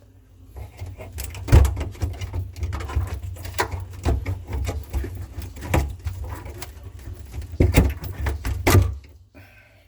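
Plastic clicks, knocks and rattles as a refrigerator's evaporator fan motor and its plastic fan blade are worked loose from their mounting by hand, with a steady low hum underneath.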